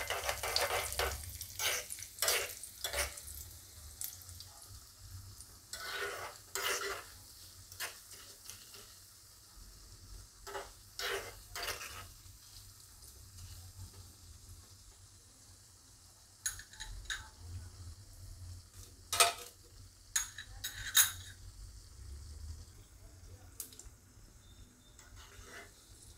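Mustard seeds, chana dal and urad dal frying in hot ghee in a small tempering pan, a faint sizzle, with a metal spoon scraping and clinking against the pan in scattered clusters of strokes as the dal is stirred until it turns slightly red.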